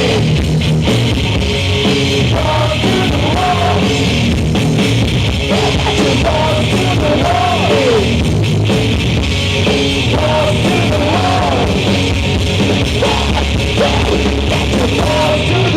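Live rock band playing loudly, with drums, distorted guitars and vocals.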